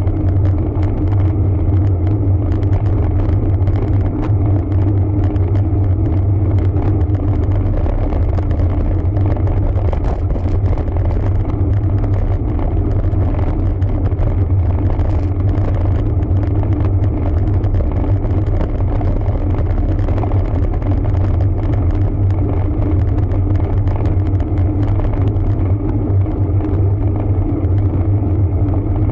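Steady low rumble of riding noise from a road bike under way: wind and road noise, even and unbroken.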